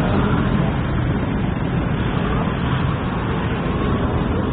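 Steady road traffic: a continuous rumble and hiss of passing vehicles.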